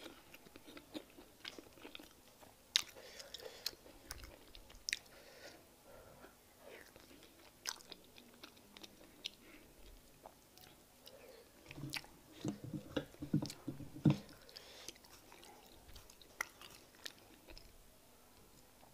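Close-miked chewing of fufu with peanut soup, eaten by hand, with many short wet mouth clicks and smacks. A run of louder chewing comes about twelve to fourteen seconds in.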